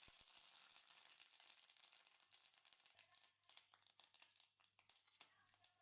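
Near silence: a faint steady hiss, with a few soft clicks and taps in the second half.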